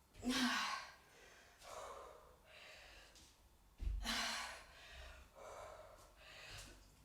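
A woman breathing hard during exercise: a series of audible breaths and sighing exhales, roughly one every second or so.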